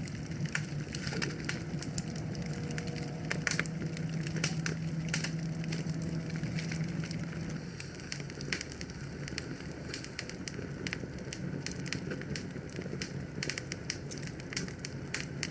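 Wood fire burning in a fireplace, crackling with many irregular sharp pops. Under it runs a low steady rumble that fades down about halfway through.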